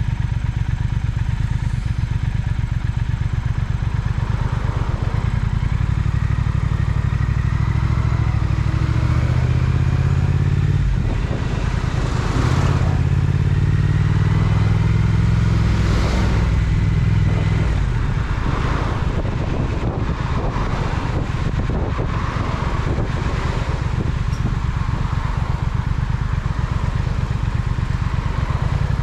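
Triumph Speed Twin parallel-twin engine running under way. It pulls harder and rises in pitch from about eight seconds in, with a brief dip near eleven seconds, then eases back to a lower steady note after about eighteen seconds.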